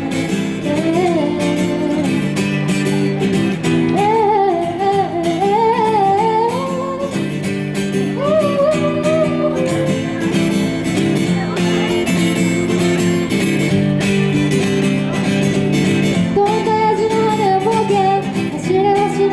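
Acoustic guitar strummed steadily, with a woman's singing voice carrying the melody in phrases over it.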